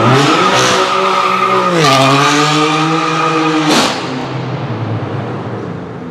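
High-performance car engine accelerating hard, revving up and then upshifting twice, with a sharp drop in pitch and a crack at each gear change, before fading as the car pulls away.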